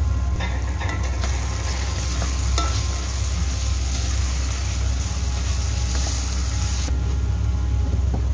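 Sliced onions with curry leaves and turmeric frying in oil in an aluminium pot while being stirred: a hissing sizzle, strongest from about a second in until near the end, with a few short knocks of the stirring spoon against the pot, over a steady low hum.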